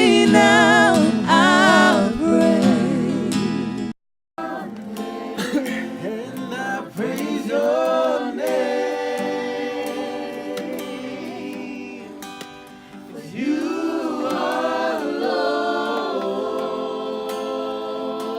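Voices singing a gospel worship song to acoustic guitar. The sound drops out briefly about four seconds in, then the singing goes on with the guitar much lighter.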